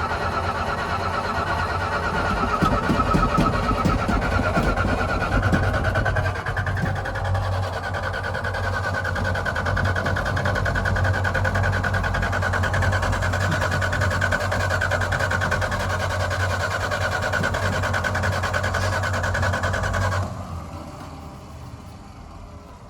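1981 Dodge D150's slant-six engine being cranked over by the starter for about twenty seconds without catching, a steady whirr that stops suddenly near the end.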